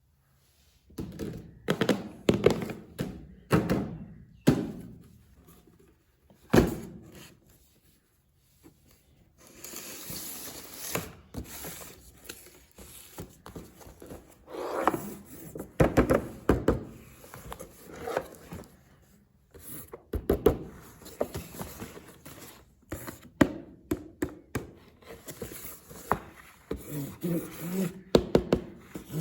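RC toy being unboxed by hand: repeated thuds and knocks of handling the box and its contents, with rustling of packaging between them.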